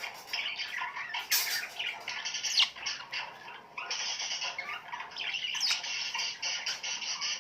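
Many birds chirping and squawking at once in a dense, continuous chatter, with two sharp down-sliding calls, about a third and three quarters of the way in.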